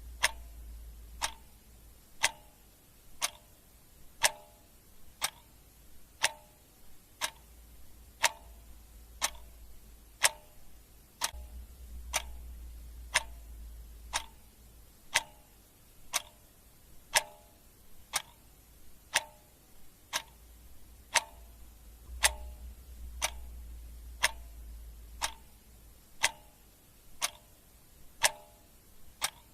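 Clock ticking steadily, about one tick a second, with alternate ticks louder and softer in a tick-tock pattern.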